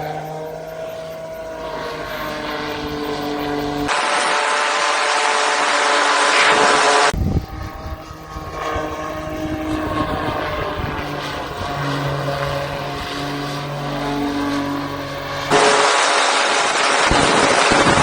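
Fly By Wire tethered plane's propeller engine running, its pitch shifting up and down. This alternates, with sudden changes about 4, 7 and 15 seconds in, with stretches of loud wind rush on the microphone.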